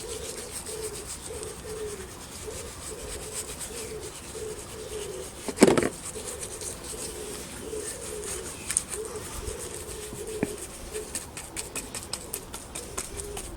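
A pigeon cooing in a long run of low notes, with one sharp knock about six seconds in and light clicks near the end.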